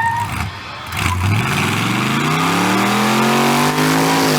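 A departing car's engine accelerating hard, its pitch climbing steadily for about three seconds from about a second in.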